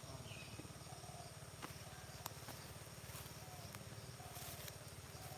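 Early-morning rural field ambience with a steady low throbbing and short calls repeated every second or so. A higher chirp comes near the start, and a few sharp clicks come through.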